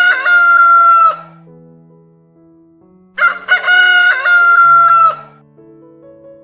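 Rooster crowing twice: the end of one crow at the start, then a full crow about three seconds in. Each crow opens with short broken notes and ends in a long held note that dips slightly as it stops.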